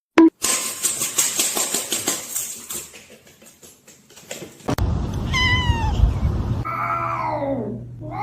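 A domestic cat meowing two or three times, each call falling in pitch, in the second half. Before that comes a stretch of rustling noise full of small clicks.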